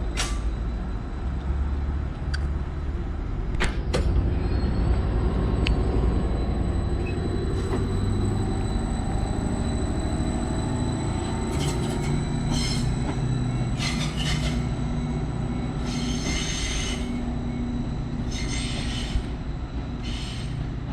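Class 755 bi-mode multiple unit running under diesel power with a steady low rumble, and a tone that rises slowly about a third of the way in. There are a few sharp clicks in the first seconds. Short, high, hissing squeals come again and again through the second half, typical of wheels squealing as the train moves.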